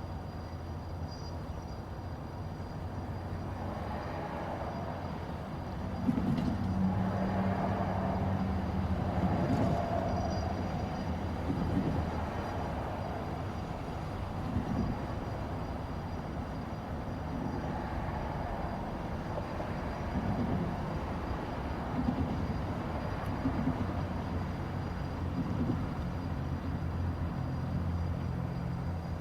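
Diesel locomotive engine running, with a steady low hum that grows louder about six seconds in as it works harder, then settles back.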